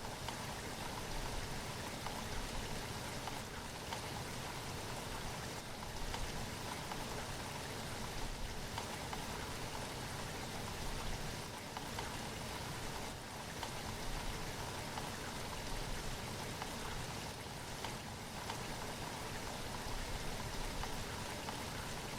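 Steady rain falling, a dense even patter of drops with small swells in level.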